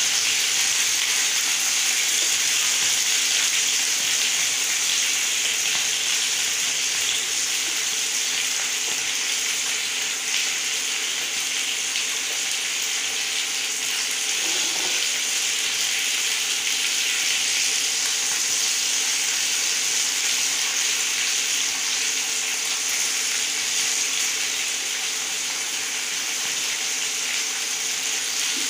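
Sliced potatoes frying in hot oil on a tawa, with a steady sizzle that holds the same level throughout.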